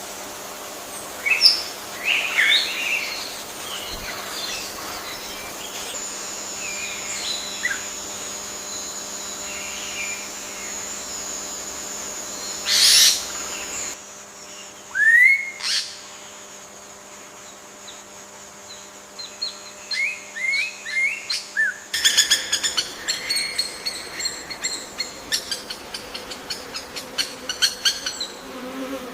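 Rainforest bird calls over a steady high insect drone: scattered chirps and whistles, a loud call about halfway through, then rising whistled notes, and near the end a fast run of chirps and clicks. The ambience changes abruptly twice.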